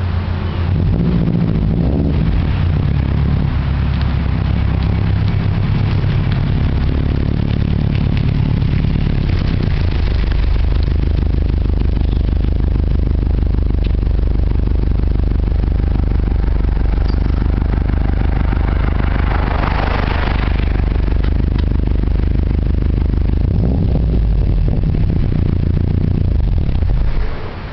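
2005 Subaru Legacy 2.5GT's turbocharged EJ255 flat-four running through a catless X02 Racing exhaust, a loud, steady low exhaust note. The sound drops away sharply near the end.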